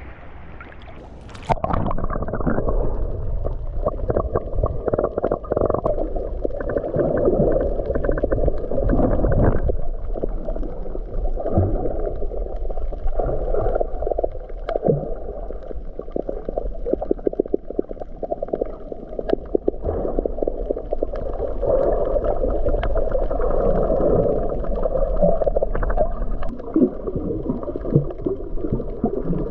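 Muffled underwater sound through a submerged camera: low water noise with bubbling and many scattered sharp clicks. It starts with a splash as the camera goes under about a second and a half in.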